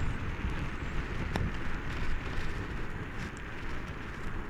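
Wind buffeting the microphone and road rumble from an e-bike riding uphill at about 40 km/h under throttle, as an even low rush with one short click about a second and a half in.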